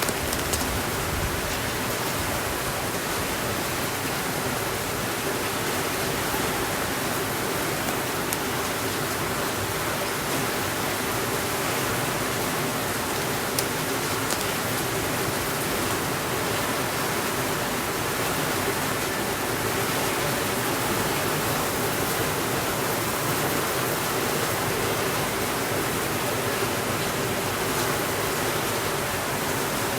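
Steady, even rainfall hiss, with a few faint clicks scattered through it.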